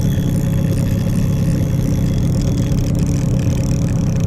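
Boat's outboard motor running steadily at low speed.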